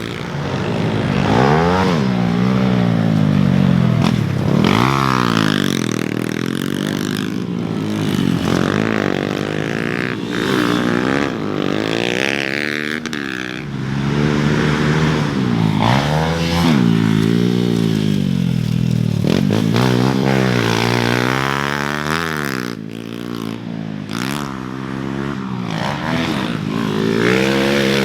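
Motocross dirt bike engines revving on the track, the pitch rising and falling over and over as the riders open the throttle and shut off, with more than one bike heard at times.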